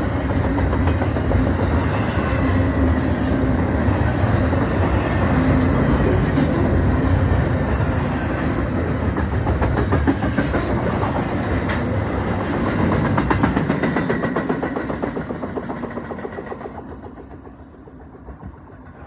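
Freight train rolling past, its wheels clicking rhythmically over the rail joints, dying away over the last few seconds.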